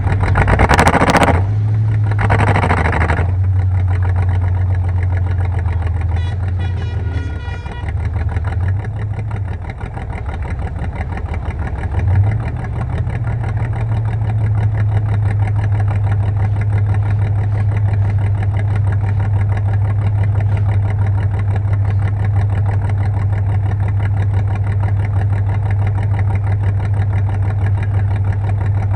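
Car engine idling with a steady low hum, after two loud bursts of noise in the first few seconds.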